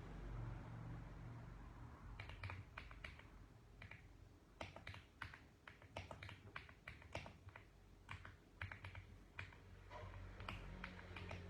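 Typing on a mechanical keyboard: runs of quick key clicks starting about two seconds in, broken by short pauses between bursts of keystrokes.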